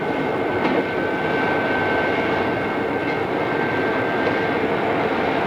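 Odakyu 2600 series electric train running at speed, a steady rumble of wheels on rail with a thin, steady high whine that stops about four and a half seconds in, and a few faint clicks.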